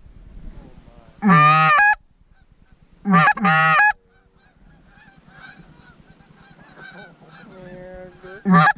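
Goose honking: three loud, close two-part honks, about a second in, about three seconds in and at the very end, most likely hunters blowing goose calls at a circling flock. Fainter honks from the flock fill the gaps.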